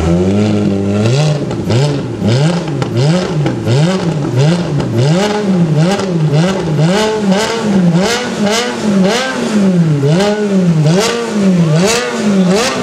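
Ferrari F430's V8 engine revved over and over with short throttle blips, the pitch rising and falling about one and a half times a second.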